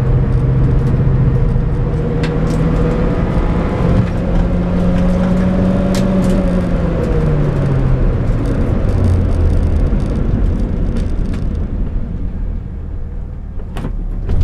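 Inside the cabin of a VW Polo 86C slalom car: the engine pulls hard with road and wind noise, its revs climbing and then dropping at a gear change about seven seconds in. Near the end the engine and road noise fall away as the car slows down.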